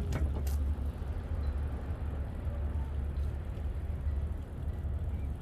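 Steady low wind rumble on the microphone of a moving bicycle, with a couple of sharp clicks about half a second in.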